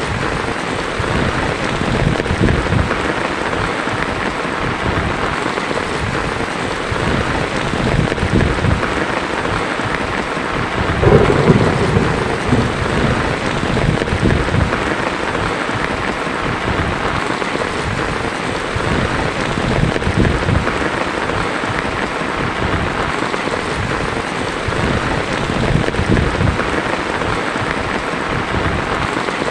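Heavy rain drumming steadily on a tin roof, with a rumble of thunder about eleven seconds in.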